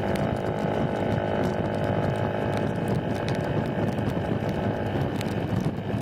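Small underbone motorcycle running at a steady speed on the move, with rushing wind and road noise and scattered sharp ticks.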